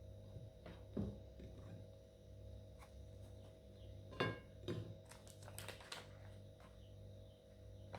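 A steady low hum under a handful of scattered light clicks and knocks. One knock about four seconds in rings briefly, like a clink, and a quick cluster of clicks follows a second or two later.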